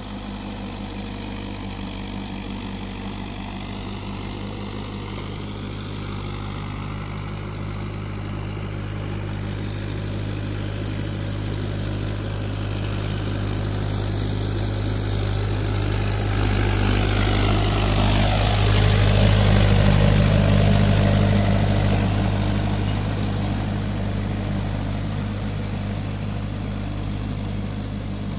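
Mahindra tractor's diesel engine running steadily. It grows louder to a peak about two-thirds of the way through, with a falling pitch as it comes close, then fades as it moves away.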